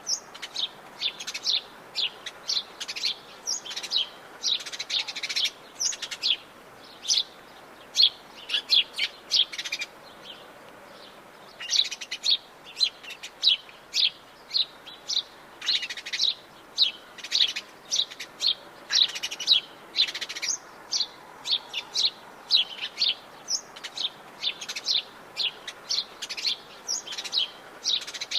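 Wild birds chirping: many short, high-pitched calls in quick succession, with a brief lull about ten seconds in.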